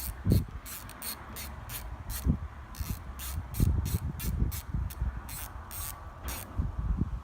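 Hand ratchet wrench clicking in a quick uneven run, about three clicks a second, as the cylinder head bolts of an Evinrude 4 hp outboard are unscrewed, with a few low knocks in between.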